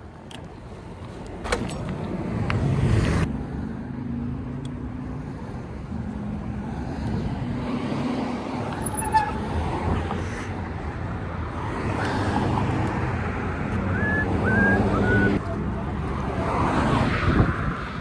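Road traffic: several cars pass one after another, each engine swelling and fading over steady road noise.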